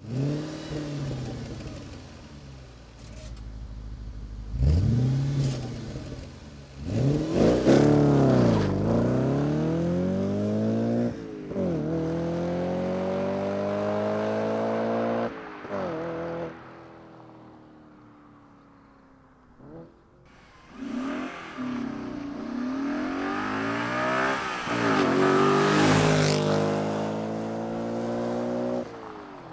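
B7 Audi RS4's naturally aspirated 4.2-litre V8 revving and accelerating hard, its note rising and falling several times with quick blips and a long pull. It is quieter for a few seconds midway, then climbs again and is loudest near the end as the car passes.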